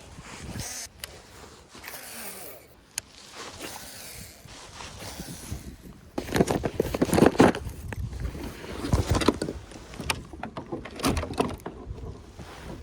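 Knocks, scrapes and water sounds aboard a small kayak on choppy, wind-blown water. The noise is irregular and gets louder about halfway through.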